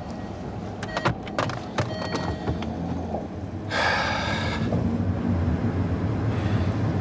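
Car door knocks and clicks as the driver gets in, then the car's engine starts with a short loud burst about four seconds in and keeps running steadily and low.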